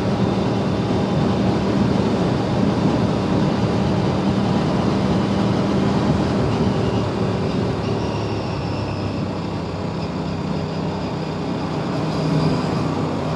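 Aprilia RS 457's parallel-twin engine running at steady road speed under wind rush. The engine note drops about six seconds in and climbs again near the end.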